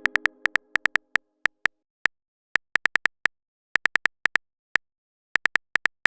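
Simulated phone-keyboard typing sound of a texting-story app: short identical ticks, one per keystroke, coming in uneven runs with brief pauses as a message is typed out.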